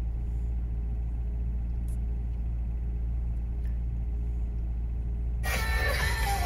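Maserati GranTurismo's V8 idling, a steady low rumble heard inside the cabin. About five seconds in, music starts playing from the car's stereo.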